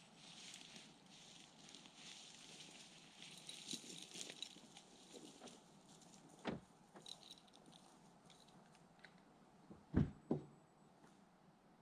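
Rain pattering in woodland with some rustling, and three dull knocks: one about six and a half seconds in and the two loudest close together near the end.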